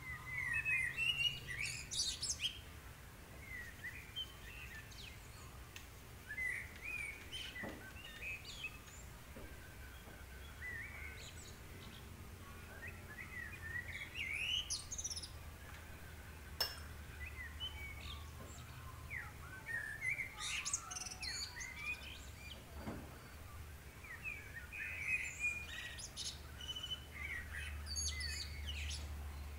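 Small birds chirping and singing in quick, overlapping short calls and whistles, with a faint steady low hum underneath.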